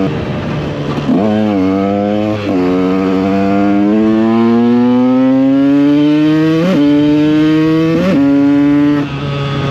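KTM EXC 125's two-stroke single-cylinder engine under way. There is a quick rev about a second in, then the engine note climbs steadily for several seconds as the bike accelerates. Near the end there are two brief jumps in pitch, and then the throttle closes.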